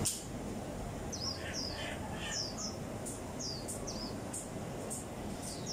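Birds calling in short, high, falling chirps, about two a second, over a low steady market background.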